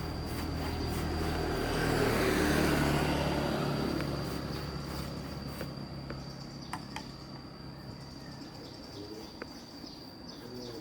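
A motor vehicle passes, its engine and road noise swelling to a peak about two and a half seconds in and then fading away. Faint bird chirps and a few light clicks follow, over a steady thin high whine.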